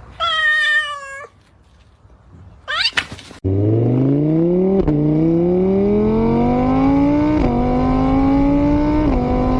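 A cat meows once, followed by a brief rising squeal. Then a car engine accelerates hard, its pitch climbing and dropping back three times as it shifts up through the gears.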